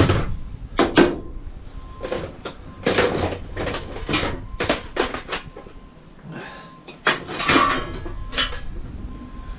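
Small pieces of scrap steel clanking as they are sorted and tossed onto a pile: a string of irregular metal knocks, about fifteen in all, with a lull around six seconds in.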